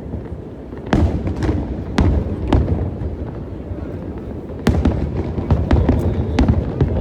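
Aerial fireworks bursting over a steady low rumble: a few separate booms spaced about half a second apart starting about a second in, then a quick run of many bursts in the second half.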